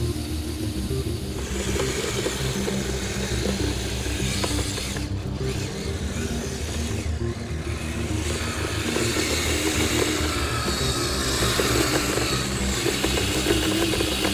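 Battery-powered Kyosho Blizzard RC snow cat driving, its electric motor and tracks running steadily. The sound grows louder about halfway through.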